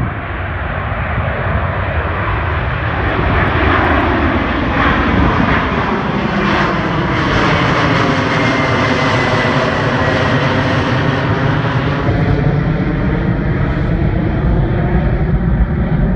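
Jet airliner passing low overhead on its climb-out after takeoff: a loud, steady engine roar with a high whine that slowly falls in pitch as it goes over.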